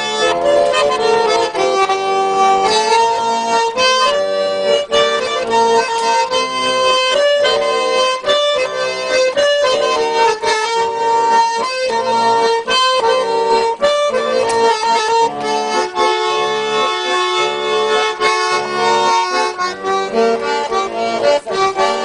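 Russian garmon (button accordion) playing an instrumental introduction: a lively melody over sustained chords and bass.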